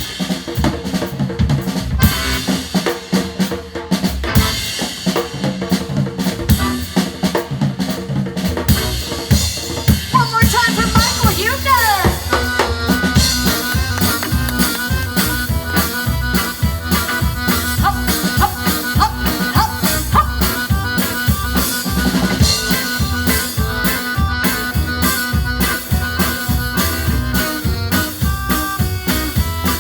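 A live dance band's instrumental break: a drum kit keeps a busy, steady beat, and about ten seconds in a sliding pitched glide leads into held melody notes over the drums.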